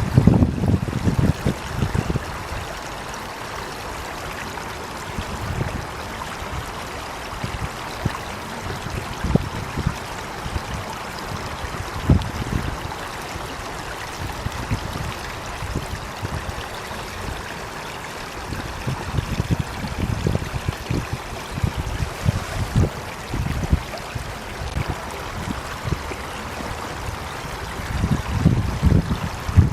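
Running water: a steady rush with irregular low surges that are strongest near the start and the end.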